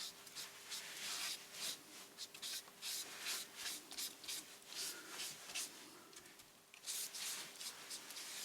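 A paintbrush stroking matte medium onto collage paper: soft, quick swishing strokes, about two or three a second, with a brief pause near the end.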